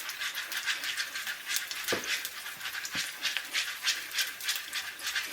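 Popcorn kernels and oil swishing in a pot as it is shaken back and forth to coat the kernels before popping, a quick rhythmic swish of several strokes a second, with two sharp knocks of the pot about two and three seconds in.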